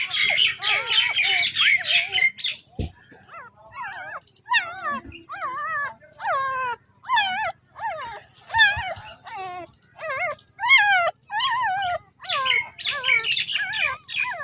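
Newborn puppies squealing and whimpering: a dense run of rapid high squeaks at the start and again near the end, with separate wavering, rising-and-falling cries in between.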